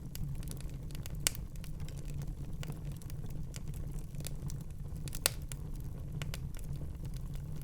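Wood fire crackling in a fireplace: a steady low rumble of the flames with scattered small crackles and two sharper pops, about a second in and about five seconds in.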